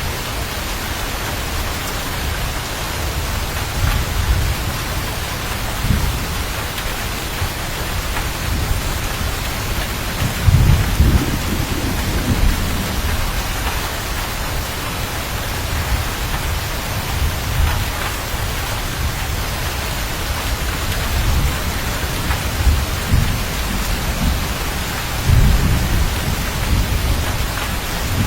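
Thunderstorm: steady heavy rain hissing, with several low rolls of thunder. The longest and loudest roll comes at about ten to thirteen seconds in, and another swells near the end.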